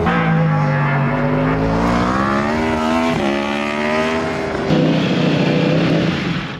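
A racing motorcycle engine accelerating hard: its pitch climbs for about three seconds, drops sharply at a gear change, and climbs again. It then holds a steadier high-revving note until it falls away at the end.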